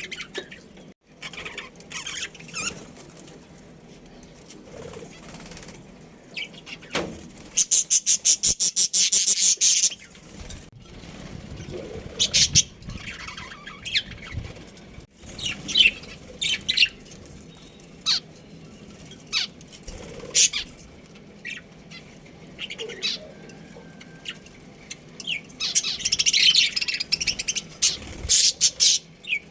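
Budgerigars chirping and chattering in short, high calls, with two longer bursts of fast, rapidly repeated high chatter, about eight seconds in and again near the end.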